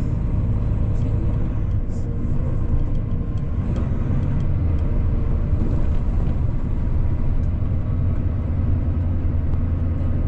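A semi truck's diesel engine running and road noise heard from inside the cab, a steady low drone.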